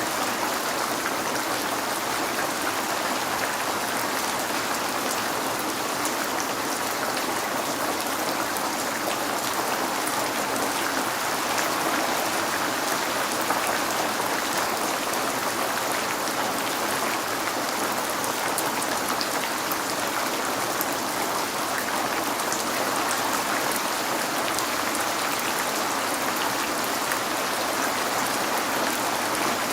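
Steady rain falling on a window: a continuous even hiss with scattered small drop ticks, unchanging throughout.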